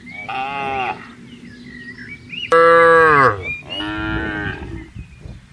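Cattle mooing three times, each moo lasting under a second; the middle one, about two and a half seconds in, is the loudest and drops in pitch at its end.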